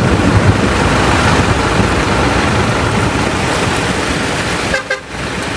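Loud, steady rushing noise of floodwater and heavy rain. About five seconds in it drops away briefly with a short tone, then gives way to a quieter hiss.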